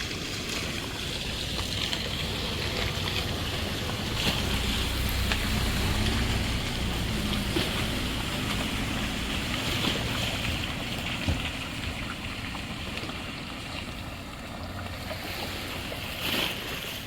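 Wind buffeting the microphone, with a motor's low hum that swells and glides in pitch for several seconds in the middle, then fades, as an engine passes by.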